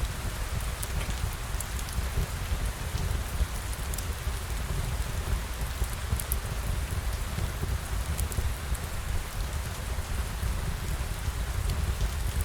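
Steady rain falling on surfaces, with a deep low rumble underneath and scattered sharp ticks.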